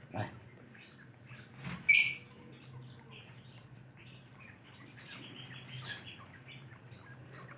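Small cage birds chirping in short, scattered calls, with one louder chirp about two seconds in, over a low steady hum.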